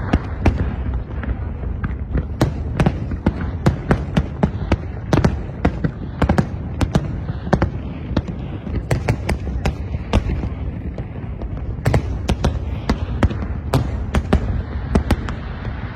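Fireworks going off: a dense, irregular string of sharp bangs and cracks, several a second, over a continuous low rumble.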